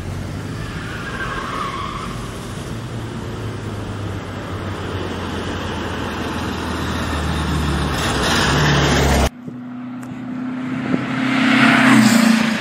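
Air-cooled VW Beetle flat-four engine running as the car drives, its note slowly rising. About nine seconds in the sound cuts abruptly to a higher engine note that grows louder as the car comes closer, peaking near the end.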